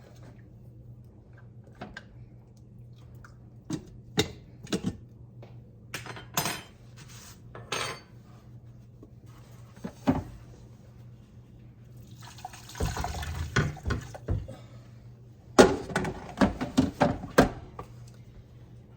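Utensils clinking and knocking against the pots as cooked chicken is moved from a crock pot into an Instant Pot, with a spell of liquid splashing about two-thirds through and a run of quick clatter near the end. A low steady hum sits underneath.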